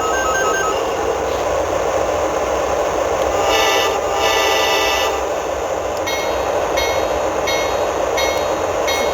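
Sound effects from a model BNSF diesel locomotive's onboard sound system: a steady diesel engine rumble, two horn blasts a few seconds in, then a bell ringing steadily through the rest.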